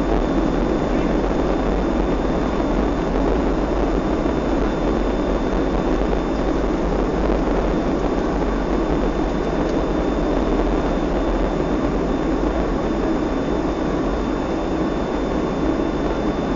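Steady rushing cabin noise inside a Boeing 757-224 airliner in flight on its approach to landing: airflow over the fuselage and the jet engines, with a low rumble underneath and a faint high whine.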